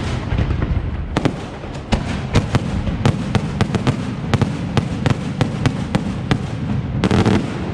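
Fireworks display: a fast series of sharp bangs, often two or three a second, over a continuous low rumble, with a short dense cluster of bursts near the end.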